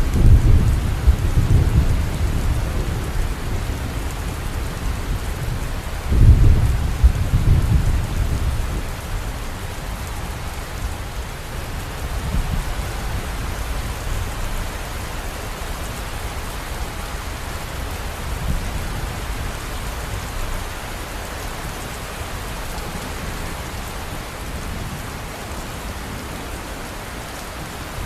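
Steady heavy rain hissing, with rolling thunder: a loud low rumble at the start and another about six seconds in, each dying away over a couple of seconds.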